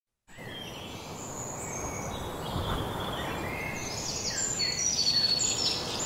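Birds chirping and whistling in many short, overlapping calls over a steady background hiss. It fades in just after the start and grows louder.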